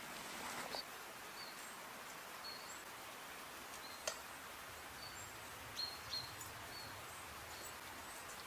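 Quiet woodland background with faint, short, high bird chirps scattered throughout, and a couple of brief soft clicks.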